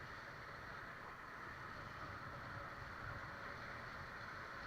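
Faint, steady rush of river water around a raft on the Ganga, with a low rumble underneath.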